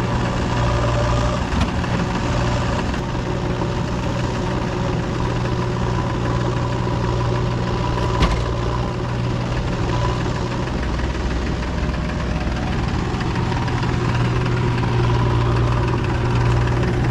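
JCB 3DX backhoe loader's diesel engine running steadily, with a sharp knock about a second and a half in and another about eight seconds in. The engine gets a little louder near the end.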